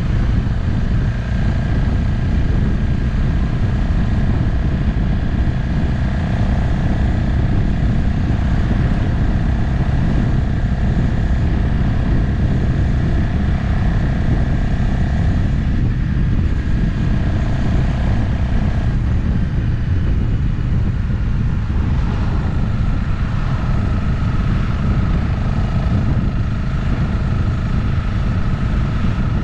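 Motorcycle riding at road speed: steady wind rush over the camera microphone with the engine's hum beneath it. The engine note breaks off and comes back a little lower about two-thirds of the way through, as the speed or gear changes.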